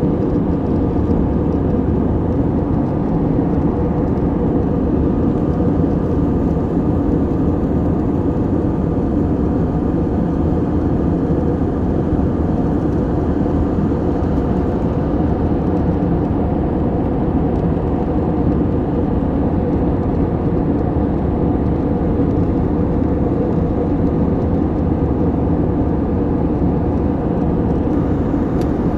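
Steady cabin noise of an Airbus airliner in flight: an even, unchanging rumble of engine and airflow, heaviest in the low range.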